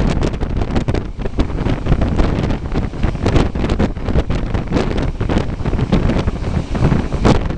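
Wind buffeting the microphone in irregular gusts over the steady low rumble of a moving train.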